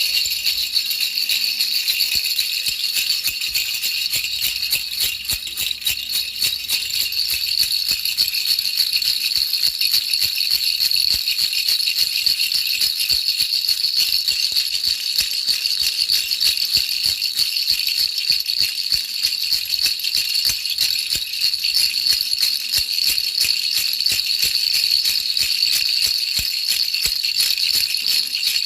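A baby's rattle shaken continuously: a dense, fast, even rattling, bright and hissy, with no pause.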